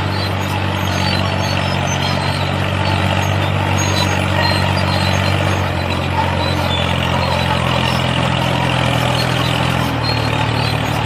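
A motor running steadily with a low hum, its tone shifting slightly near the end.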